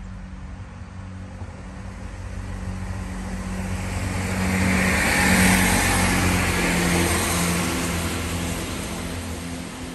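Chiltern Railways diesel multiple unit passing at speed on the near track: engine drone and the rush of wheels on rail build to a peak about halfway through, then fade as it goes by.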